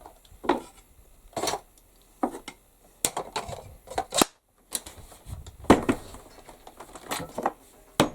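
Irregular knocks and clacks of felling wedges being handled and put into a leather wedge carrier, the wedges knocking against each other.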